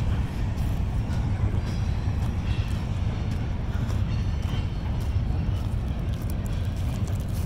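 Freight train cars rolling over a steel truss bridge: a steady low rumble.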